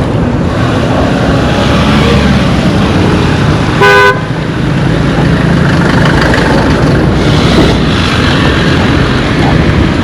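Road traffic running steadily, with one short vehicle horn toot about four seconds in.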